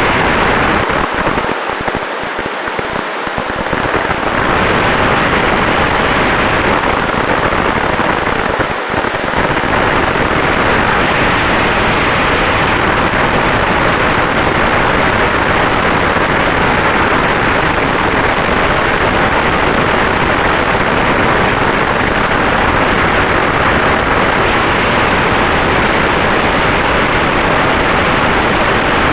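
Steady rush of airflow and propeller noise in flight in an electric Sonex Xenos motorglider, with a faint steady whine from the electric drive. The rush eases briefly about two seconds in and dips again for a moment near nine seconds.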